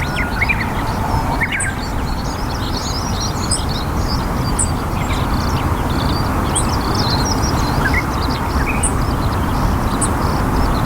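Small birds calling with many short, high chirps scattered throughout, over a steady low background rumble.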